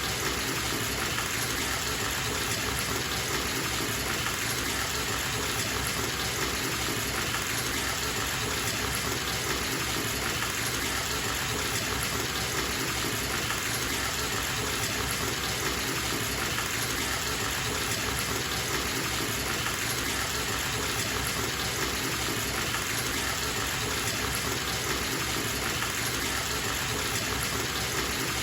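Bathtub tap running, water pouring steadily into the tub with an even rushing hiss.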